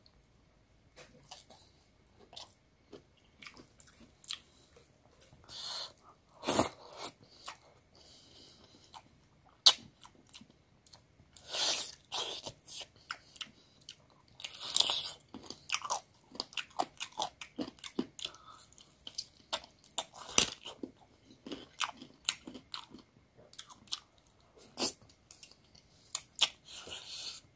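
A person chewing and biting through a meal of chicken pieces and boiled cabbage leaves, eaten by hand: many irregular mouth clicks and smacks, with a few louder bursts now and then.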